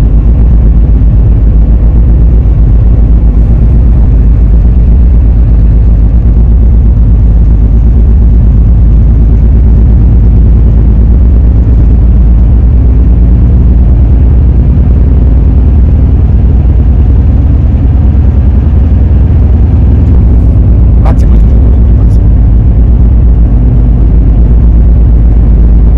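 Car travelling along the road: a loud, steady low rumble of road and wind noise.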